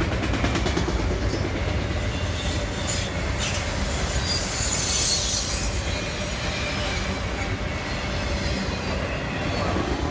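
Freight train of autorack cars rolling past close by: a steady rumble and rattle of steel wheels on the rails, with a brief high-pitched wheel squeal about halfway through.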